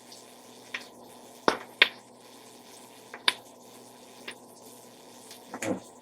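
A few short clicks and light knocks of a kitchen utensil against a cooking pot while garlic powder is added to sautéing onions, with a louder knock near the end.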